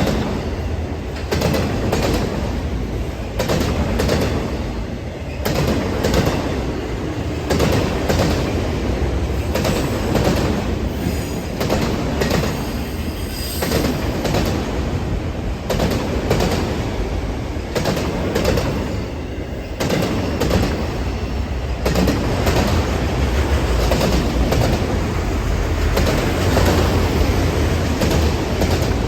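Freight train cars rolling past, with a steady low rumble and irregular clicks and clunks of the wheels over rail joints.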